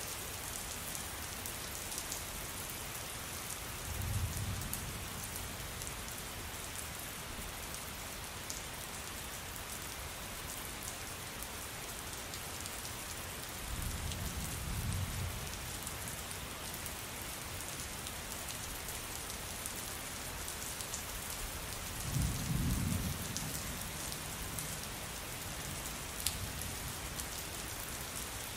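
Steady rain pattering, with fine drop ticks over an even hiss. Three low rumbles of thunder come about four, fourteen and twenty-two seconds in, each lasting a second or two, the last the loudest.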